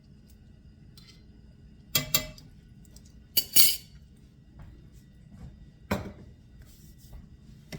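Kitchenware clattering: sharp clinks and knocks of dishes, utensils or a pan being handled, in two quick pairs about two and three and a half seconds in, then once more near six seconds.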